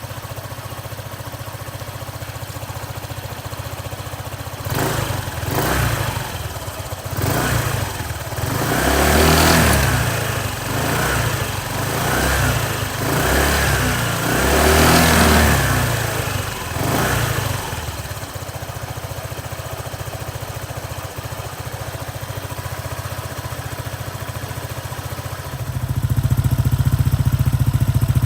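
Honda PCX150 scooter's single-cylinder four-stroke engine idling through its exhaust, then blipped up and down about eight times. It settles back to idle, and about 26 s in the sound steps up suddenly to a louder, steady idle.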